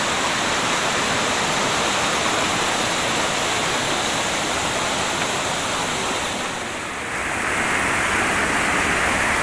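Waterfall, falling water rushing steadily. About seven seconds in it dips for a moment, then comes back with a brighter hiss.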